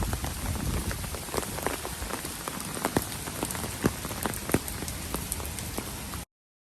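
Rain falling steadily on a surface, with many separate drop hits standing out, cutting off abruptly near the end.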